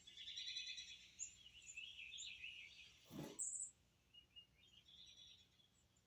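Faint bird chirping and trilling, with quick repeated notes, and a single short knock about three seconds in.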